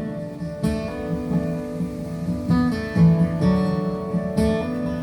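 Live band music, mainly acoustic guitar strumming chords, with no singing.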